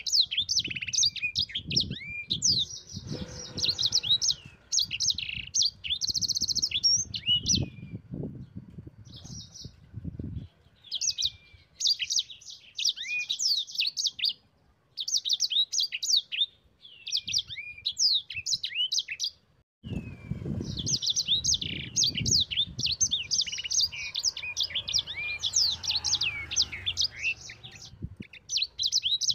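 A sanger (yellow-fronted canary) singing in full song: long runs of rapid, high chirps and trills, broken by short pauses near the middle, over a low rumbling background noise.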